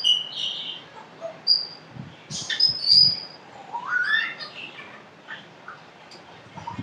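African grey parrot whistling and chirping in short high notes, with a rising whistle about four seconds in.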